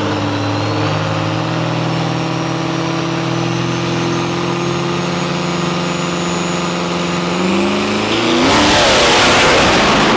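Turbo diesel truck engine running at steady revs, with a thin turbo whistle slowly climbing in pitch. About seven and a half seconds in the revs rise, and near the end it turns louder and much noisier as it accelerates hard.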